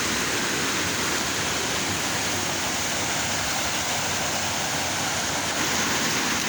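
River water rushing steadily over rocks, an unbroken loud hiss of flowing water.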